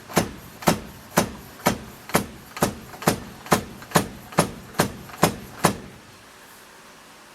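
Metal-on-metal knocks, about two a second and a dozen in all, each ringing briefly, as a fork seal is driven down into a Yamaha FJ1200 fork leg with a makeshift tube driver. The knocking stops about six seconds in.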